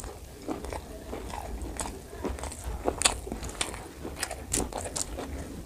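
A man chewing a mouthful of spicy pork curry and rice with his mouth open, close to the microphone: irregular wet smacks and clicks, the sharpest about three seconds in.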